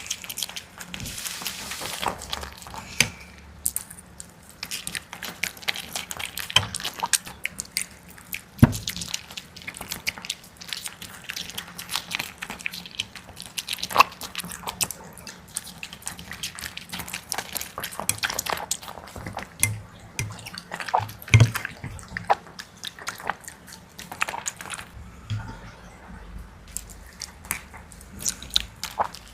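A dog eating: irregular wet smacking and clicking of its chewing, with a few louder snaps.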